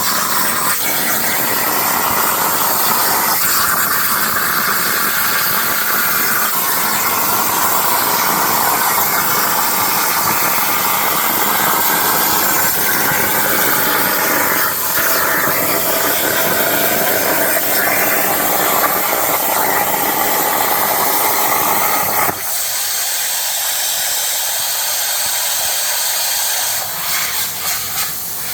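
Plasma cutter torch on a CNC plasma table cutting steel saw blade, a loud, steady hiss. About 22 seconds in the fuller part of the sound drops out, leaving a thinner, high hiss that turns uneven near the end.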